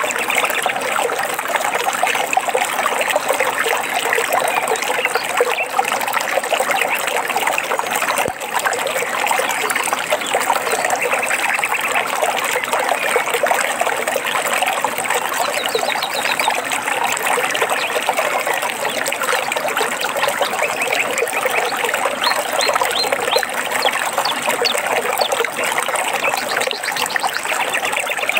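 A small stream trickling and babbling steadily, with a few faint high bird chirps in the second half.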